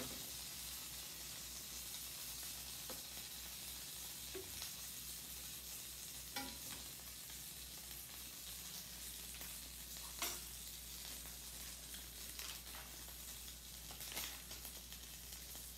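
Hot butter sizzling steadily in a skillet around a frying apple pie, with a few short clicks of the spatula against the pan.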